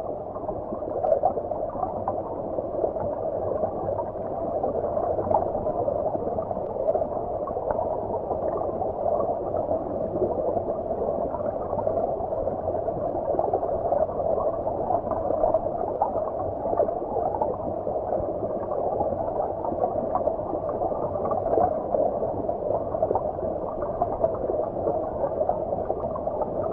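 Shallow stream heard from under the water: a steady gurgling rush of flowing water, muffled, with no high hiss.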